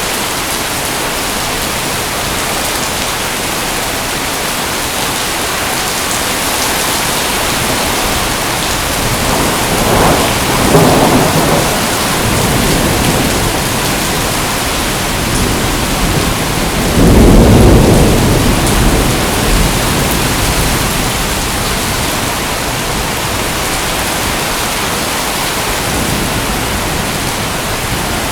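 Steady heavy rain hissing, with two rolls of thunder rumbling through it: one about ten seconds in and a deeper, louder one around seventeen seconds that fades over a few seconds.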